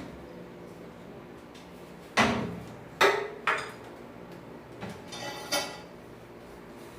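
Metal pieces clanking and clinking as they are handled and set down, about five knocks, a couple of them ringing briefly.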